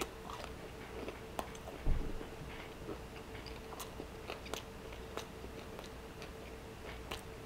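Close-miked chewing of crispy fried pork belly (chicharrón), with scattered small crunchy clicks. A single low thump about two seconds in is the loudest sound.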